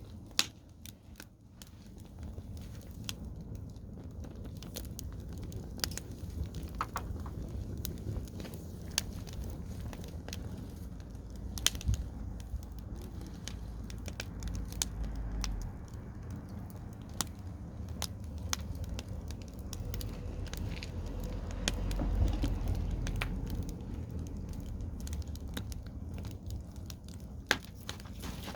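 Garden bonfire crackling, with scattered sharp pops and snaps over a low steady rumble.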